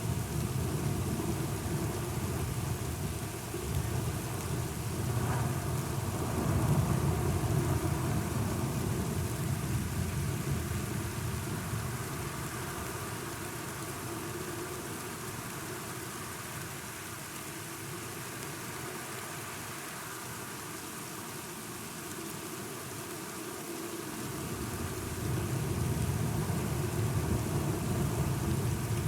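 Steady rain with low rolling thunder from a thunderstorm. The thunder rumbles through the first part, dies down in the middle, and builds again near the end while the rain keeps up.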